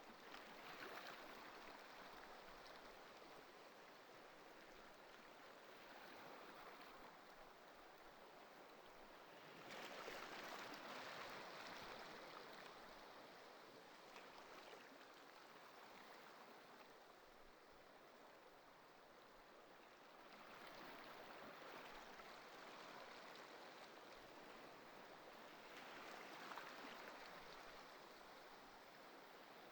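Faint ocean surf: waves breaking and washing in as a soft hiss that swells every several seconds, the biggest surge about ten seconds in.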